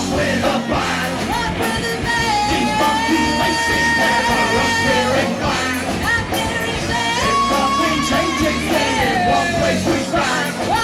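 Live rock band playing loudly, with a full band underneath long held melody notes that hold for about two seconds each, one sliding downward in pitch about three-quarters of the way through.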